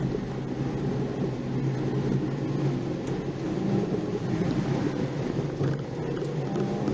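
Nissan March 12SR's 1.2-litre four-cylinder engine pulling while driving, heard from inside the car with tyre and road noise; the engine note holds fairly steady, then rises as it revs up near the end.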